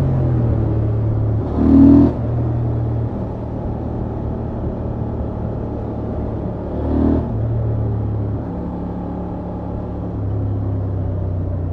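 Honda XL750 Transalp's parallel-twin engine running steadily on its stock exhaust at cruising speed, its pitch stepping a few times as the throttle changes. Two brief louder swells come about two and seven seconds in.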